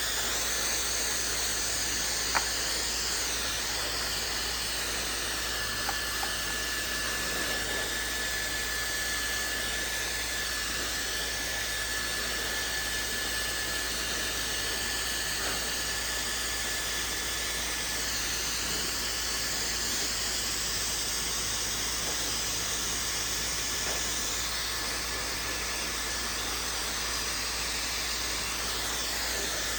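Maxodo 1400-watt high-speed hair dryer blowing steadily while drying hair: a strong, even rush of air with a thin high motor whine running through it.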